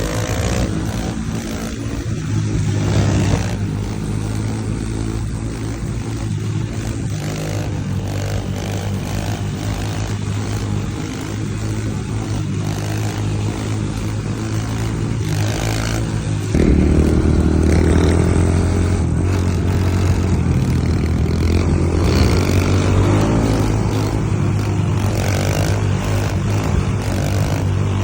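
Pit bike engine running while riding, a steady drone that about two-thirds of the way through jumps suddenly louder and higher as the throttle opens, then rises and falls.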